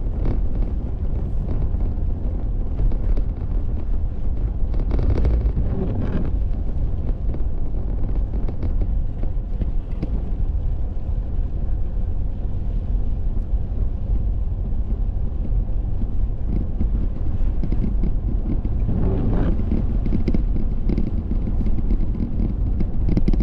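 A car driving, heard from inside the cabin: a steady low rumble of engine and road noise with a hiss of wind and tyres above it.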